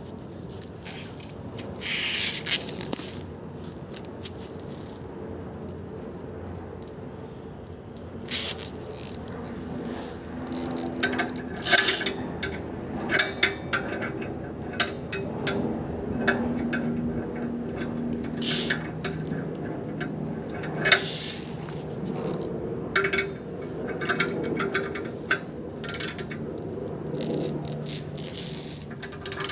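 Hand tools clicking and scraping on metal parts while tightening them in a car's engine bay, over a steady low hum.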